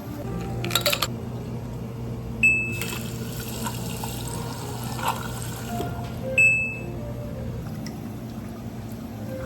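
Liquid being poured for about three seconds over background music, with two short high pings, one just before the pour and one just after.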